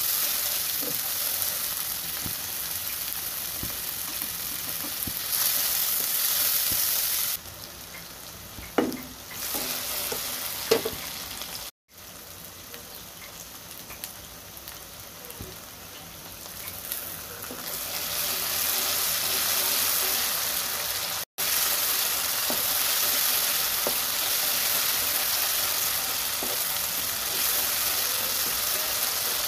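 Chopped onions and tomatoes sizzling in hot oil in a wok while a wooden spatula stirs them. The sizzle drops low for about ten seconds in the middle, with a couple of knocks, then comes back loud, and is broken twice by brief dropouts.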